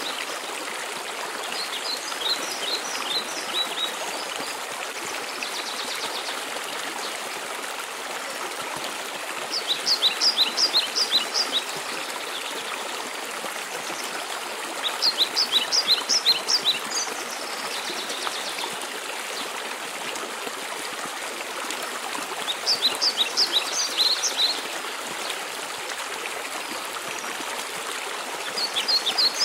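Steady rush of a mountain waterfall, with a songbird repeating a short phrase of quick, high, falling notes about every six seconds.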